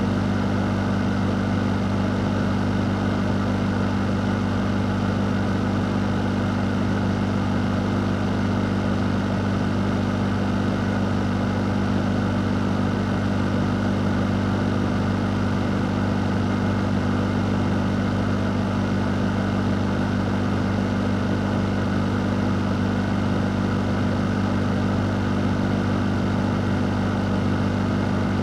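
A fan running steadily: a low, unchanging hum under an even rush of air, with no change in speed.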